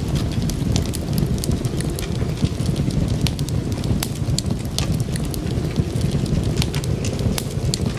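Wood fire crackling, with frequent sharp pops and clicks over a steady low rumble.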